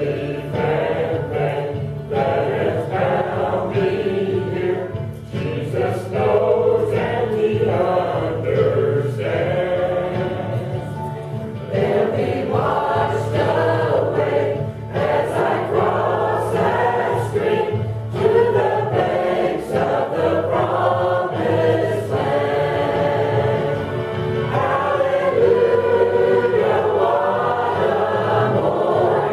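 Choir singing a gospel song.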